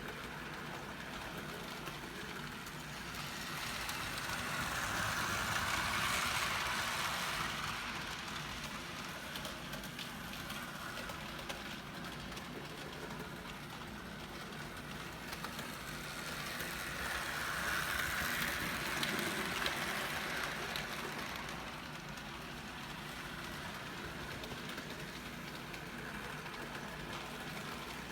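HO scale Athearn model diesel locomotive and cars running on the track, a steady whirring of motor and wheels that grows louder twice, a few seconds in and again past the middle, then falls back.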